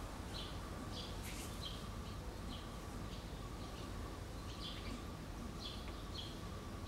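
Small birds chirping: short high chirps repeating irregularly, about one or two a second, over a faint steady thin tone and a low background rumble.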